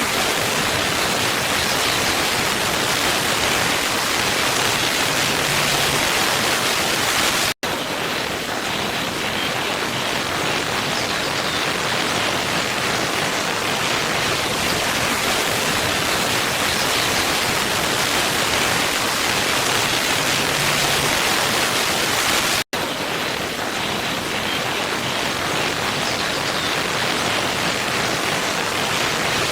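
Waterfall: a steady rush of falling water with no changes in strength. The sound cuts out for an instant twice, about fifteen seconds apart.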